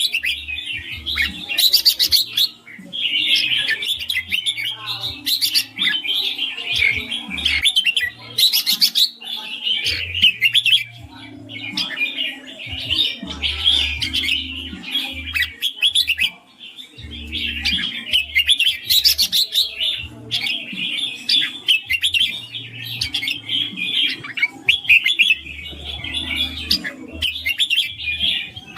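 Red-whiskered bulbul singing the rapid, chattering 'ring' song as a near-continuous run of quick notes, broken by a few short pauses.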